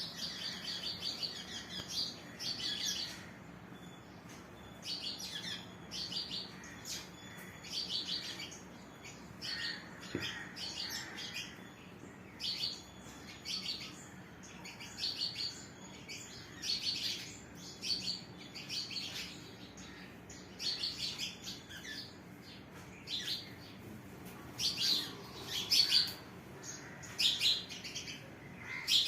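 Small birds chirping: clusters of short, high chirps repeating every second or two, over a faint steady low hum.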